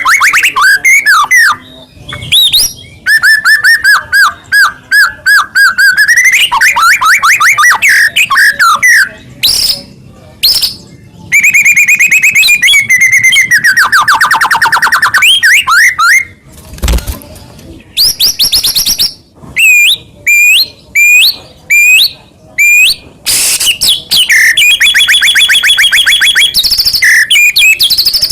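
White-rumped shama (murai batu) singing loudly and continuously: a long, varied song of rapid repeated notes, clear whistles and sweeping rising and falling phrases, broken by short pauses.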